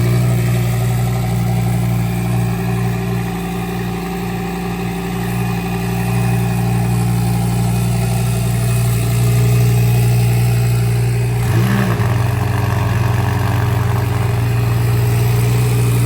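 Supercar engine idling steadily with a deep, even drone, the tone shifting briefly about twelve seconds in.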